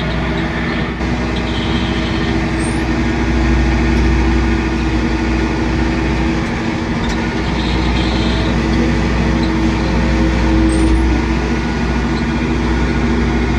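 Tractor engine running steadily under load, heard from inside the cab while it moves dirt.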